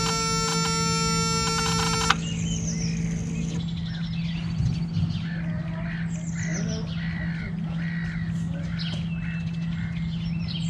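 A steady buzz of many tones cuts off suddenly about two seconds in. After that, birds chirp repeatedly over a steady low hum.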